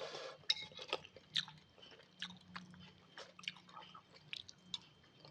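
A person chewing a mouthful of instant noodles in chicken broth, close to the microphone: soft, irregular wet mouth clicks and smacks.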